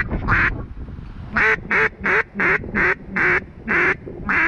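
Mallard hen-style quacking: one quack at the start, then after a pause a loud, evenly paced run of about eight quacks, the cadence of a hen's descending greeting call.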